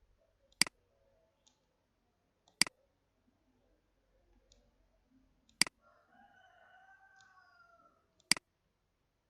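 Four sharp computer mouse clicks, spaced a few seconds apart. Between the third and fourth clicks a faint, drawn-out call sounds in the background.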